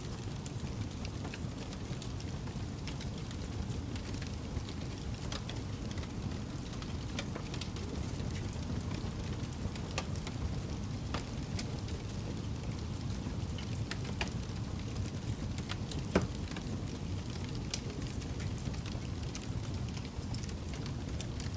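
Campfire burning with a low steady rumble and scattered crackles and pops, one pop standing out louder about three quarters of the way through.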